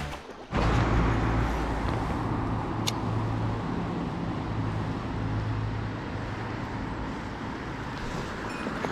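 A motor vehicle driving, with a steady low engine hum and road rumble, and one sharp click about three seconds in.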